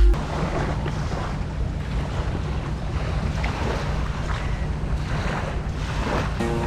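Wind buffeting the microphone over sea water, a steady low rumble under a noisy hiss. Music comes back in near the end.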